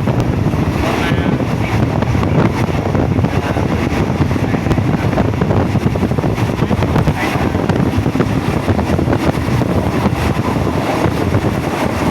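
Passenger train running, heard from aboard: a loud, steady rush of wind over the microphone mixed with the train's running noise.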